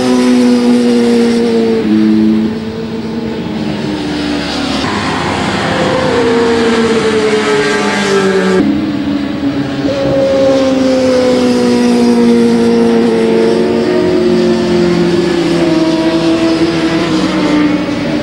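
Several racing motorcycle engines passing at speed, one after another and overlapping, their notes falling in pitch as each goes by.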